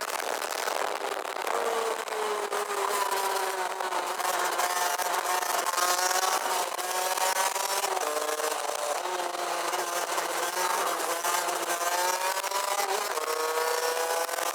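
Rotax Max DD2 kart's 125 cc single-cylinder two-stroke engine heard onboard, its pitch rising and falling several times as the driver accelerates and lets off, with a sudden drop in pitch about eight seconds in. Heavy wind rustle on the microphone.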